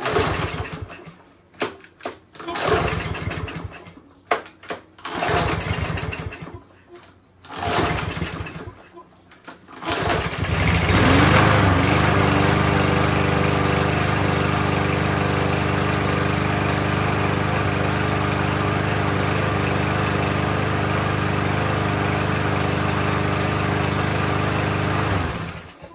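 Briggs & Stratton single-cylinder mower engine being pull-started: several short bursts as it is cranked and sputters, then it catches about ten seconds in, picks up speed and runs steadily before cutting off suddenly near the end. The engine, which would not start before the repair, now starts and runs.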